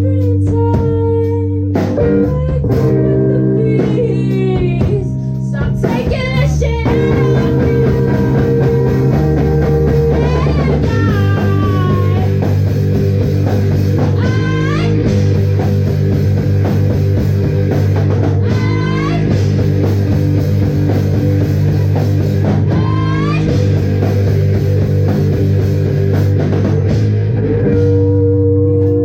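Live rock band playing a song: electric guitar over bass and drum kit. Several guitar notes slide up and down through the passage.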